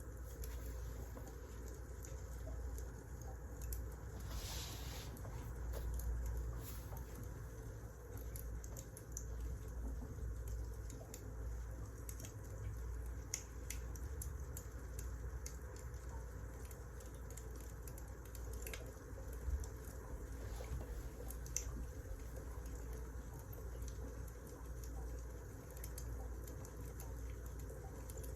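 Wood fire crackling: a steady low rumble with scattered small pops and snaps, a few of them louder, and a short hiss about four seconds in.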